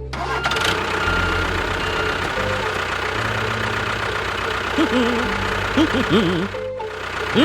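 A tractor engine running steadily with a low rumble. In the second half, short sliding, chirping pitched sounds come over it.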